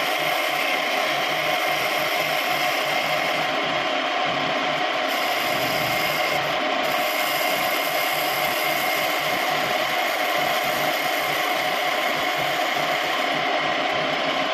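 Homemade wood lathe running steadily, with a fast, even rattling clatter over a broad whirring hiss.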